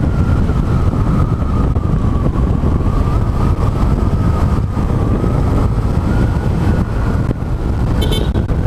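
Honda Click scooter riding at full speed: heavy wind rush over the microphone with the scooter's engine and belt-drive whine as a steady tone that sags a little midway and climbs again near the end. A brief high chirp sounds near the end.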